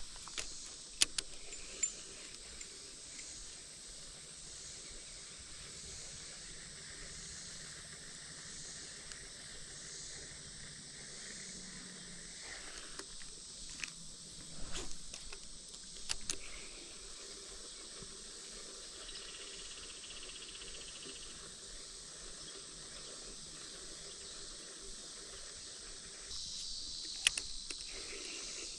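Steady high-pitched hiss of insects calling in summer, with a few sharp clicks and small knocks scattered through.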